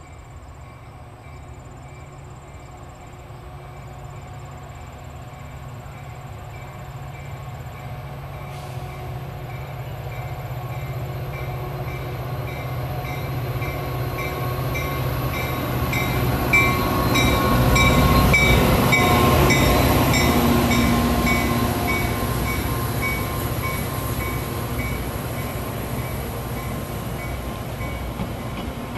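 Metra commuter train with a diesel locomotive leading, approaching and passing: the engine and rail noise grow steadily louder and peak as the locomotive goes by, about two-thirds of the way in. The bilevel passenger cars then roll past with steady wheel-on-rail noise.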